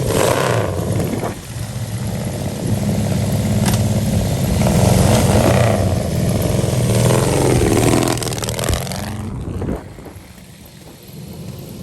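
Vehicle engine running loudly as it passes close by, then dropping away about ten seconds in.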